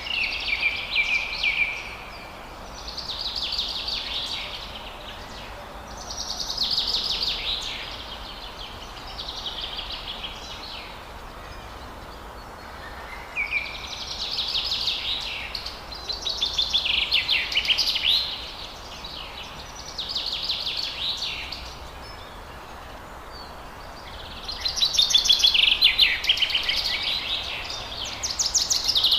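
Forest songbirds singing: high, fast, chirping song phrases of about two seconds each, repeated every few seconds, over a steady low background hiss.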